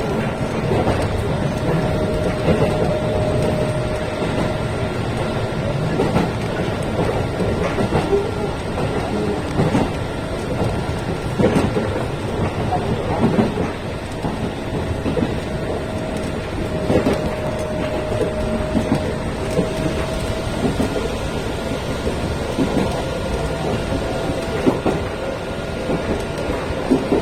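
Sangi Line electric train running, heard from inside the passenger car: a steady rumble of wheels on rail with scattered knocks from rail joints and a faint steady whine.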